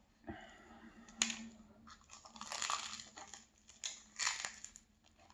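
Close-miked chewing of a dense, flaky lemon-curd pastry: irregular crackling and crunching of the crust, with a sharp click about a second in.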